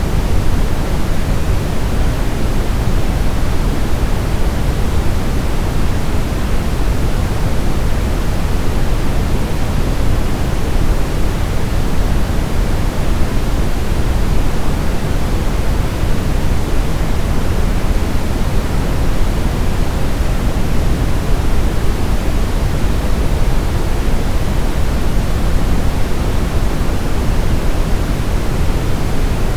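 Steady, unbroken sleep-aid noise, a smooth hiss weighted towards the low end like pink noise, with no changes, beats or other sounds.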